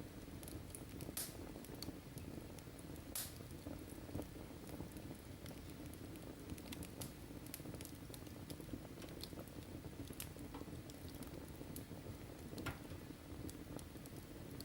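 Wood fire burning in a fireplace: a low steady rumble of flames with scattered sharp crackles and pops, the two loudest about one and three seconds in.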